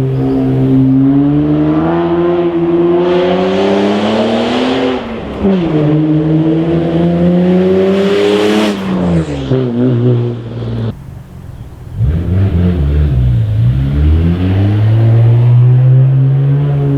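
Toyota JZX90 Mark II's 1JZ-GTE twin-turbo straight-six exhaust under hard acceleration: the revs climb, drop at a gear change about five seconds in, and climb again. Near the middle the throttle is lifted and the engine goes quieter, then the revs build once more through the last few seconds.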